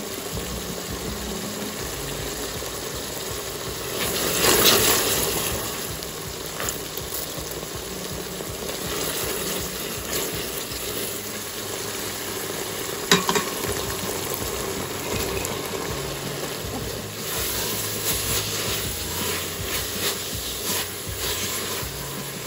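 Spices and dried red chilies sizzling in oil in an Instant Pot's steel inner pot, with a louder surge of sizzling about four seconds in. Soaked chana dal goes in and is fried and stirred with a spatula that scrapes the pot, and there is one sharp knock about thirteen seconds in.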